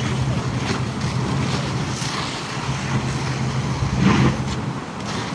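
A vehicle engine running steadily, a low hum under outdoor noise and wind, with a brief louder rush about four seconds in.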